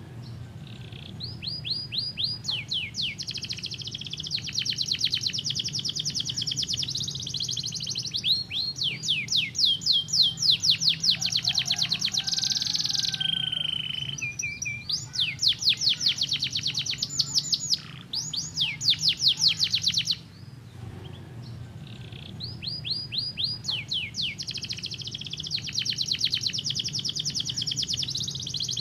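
Domestic canary singing: long runs of fast, rapidly repeated high trills, broken by short pauses near the start and again about two-thirds through, with one held lower note midway. A faint steady low hum lies underneath.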